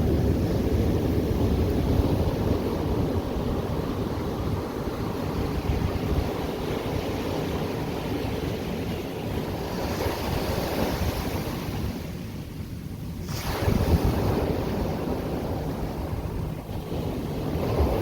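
Ocean surf washing onto the shore in a steady rush, with wind on the microphone. After a brief lull, a sudden loud crash of a breaking wave comes about two-thirds of the way through.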